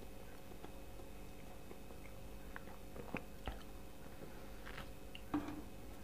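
A person eating close to the microphone: soft biting and chewing with a few short wet mouth clicks, the loudest about five and a half seconds in, over a faint steady hum.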